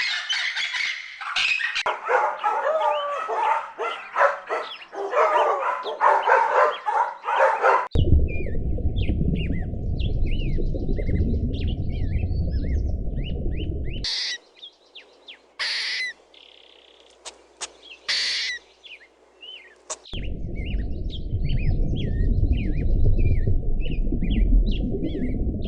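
Small birds chirping and calling: a dense chorus of chirps for the first several seconds, then short separate calls. A steady low rumble lies under the calls for two stretches, and a few sharp calls stand out in a quieter middle part.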